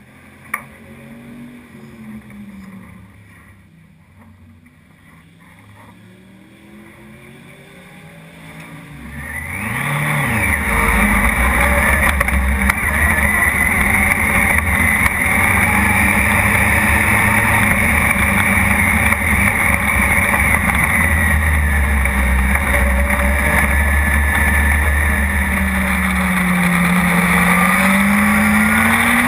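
Dwarf race car's motorcycle engine idling unevenly, with a sharp click right at the start, then revving up about nine seconds in and running loud and steady as the car pulls away; near the end the engine note drops and climbs again as it slows and picks up speed.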